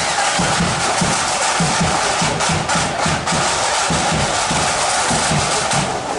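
Flute band's drum corps playing a steady marching beat, bass drum thumping about three to four times a second under rattling snare drums.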